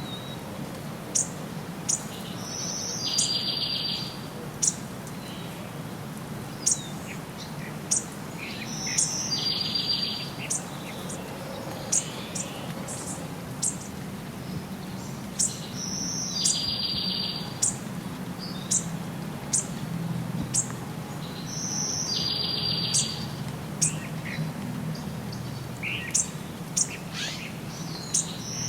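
Songbirds chirping: sharp, quick chirps every second or so, and a short trilled phrase that comes back about every six seconds, over a steady low background hum.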